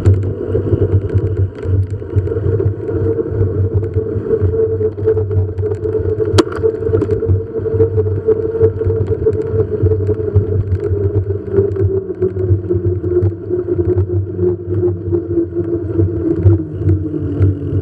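A vehicle rolling along an asphalt road with a steady running noise and scattered small rattles, its pitch slowly dropping near the end as it slows.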